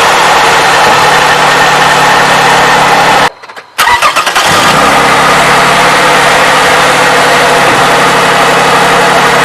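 Toyota 3.5L V6 engine running steadily, heard close up. The sound drops out briefly about three seconds in and then resumes. The owner takes the engine to be free of its earlier valve-advance clacking now that it has been treated with a graphene oil additive.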